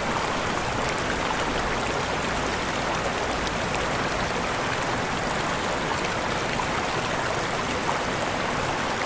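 Waterfall: falling water in a steady rushing hiss that holds an even level throughout.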